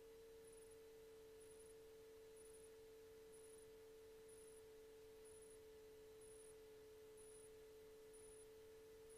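Near silence on the audio feed: a faint steady electrical hum tone, with a faint high blip repeating about once a second.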